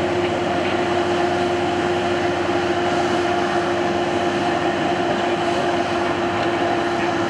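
Steady drone of a running vehicle: a constant engine hum over an even wash of noise, unchanging throughout.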